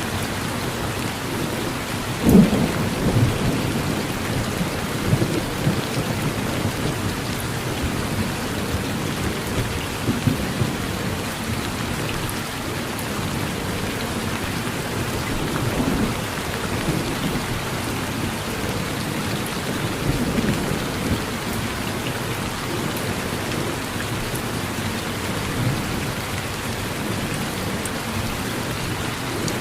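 Steady rain falling, with thunder: a sharp clap about two seconds in, then rumbling, and softer rolls of thunder several more times.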